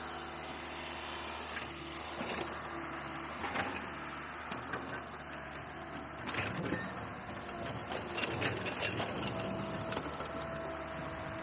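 Dirt bike engine running at low revs with a steady drone, broken by clusters of short clattering knocks around two, four, six to seven, and eight to nine seconds in.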